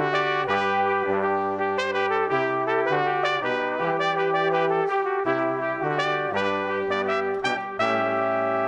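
Brass music, with trumpets and trombones playing a slow series of chords in changing notes, settling into a held chord near the end.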